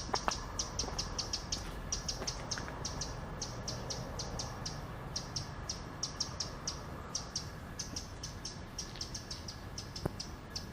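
A small bird chirping in quick runs of short, high chirps, several a second, with brief pauses between the runs.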